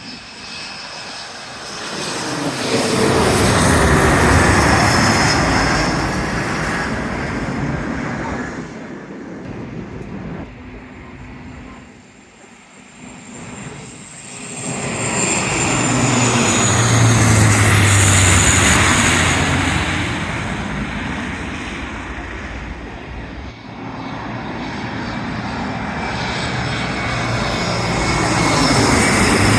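Jet airliners passing low overhead one after another. Each swells to a loud rumble and whine and then fades, dropping in pitch as it goes by; three passes, the loudest about 18 seconds in.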